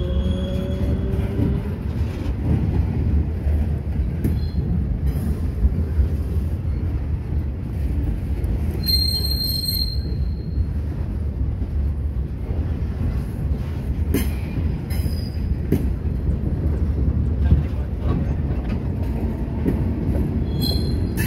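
Freight cars rolling past close by: a steady rumble of steel wheels on the rails, with a brief high-pitched wheel squeal about nine seconds in and a few sharp clacks later on.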